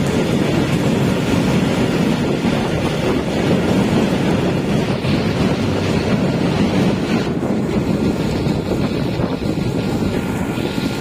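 Freight train wagons rolling past at speed: a steady, dense rumble of steel wheels on the rails, mixed with the hiss of heavy rain.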